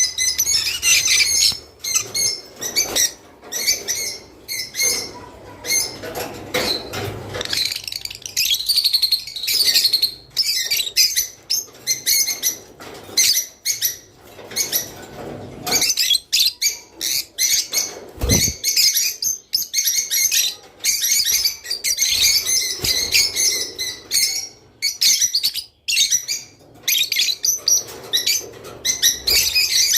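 A flock of rosy-faced lovebirds chirping and chattering without pause, many short, sharp, high calls overlapping.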